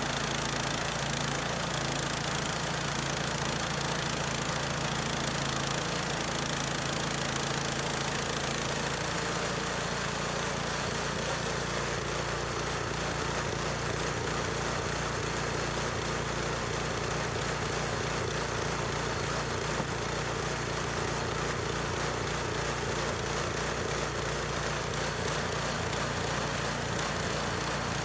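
Small gasoline engine of a portable bandsaw sawmill running steadily, its note changing a little about ten seconds in.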